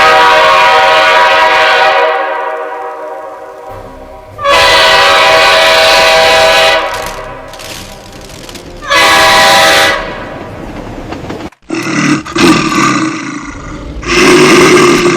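A train horn sounding three long, steady blasts: the first fades out slowly, and the third is shorter. In the last few seconds it is followed by a rougher, lower sound.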